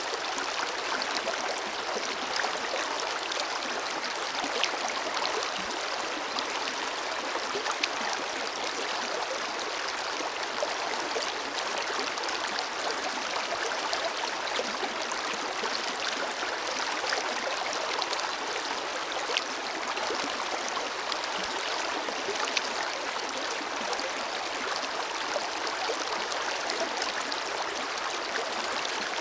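Forest river flowing steadily over rocks: a continuous rush of water with small splashes and gurgles scattered through it.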